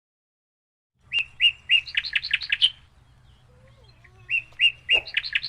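A bird's chirping song: a quick run of about ten high chirps, sung twice with a pause between, after a second of silence.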